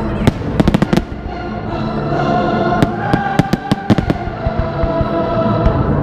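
Fireworks going off in a display: a run of sharp bangs and crackles, thickest about a second in and again between three and four seconds in, with music holding long notes underneath.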